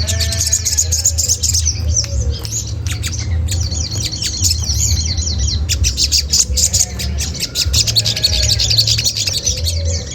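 Olive-backed sunbird calling: a continuous stream of rapid, high chirps and harsh 'cret cret' chatter notes, used as a lure call to provoke other birds into answering. A steady low hum runs underneath.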